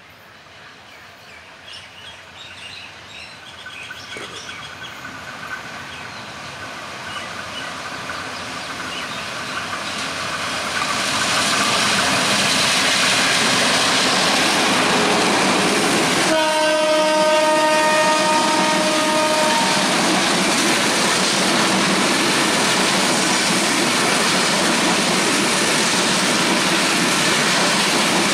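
A Bangladesh Railway diesel locomotive hauling an express train approaches, growing steadily louder, then passes close by. About sixteen seconds in, its horn sounds one chord of several tones for about three seconds, while the passenger coaches go on rolling past with a steady running noise.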